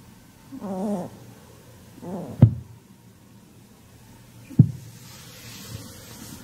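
Pet rabbit growling in two short wavering cries, the second ending in a sharp knock; another sharp knock follows about two seconds later.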